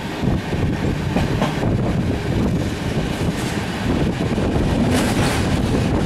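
Passenger train running over the rails, heard from aboard at an open window: a steady rumble of wheels on track with a few clicks from the wheels.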